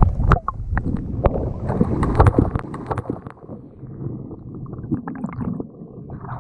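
Water splashing and gurgling against the side of the boat, with wind buffeting the microphone. The splashes are busiest and loudest in the first three seconds, then ease off.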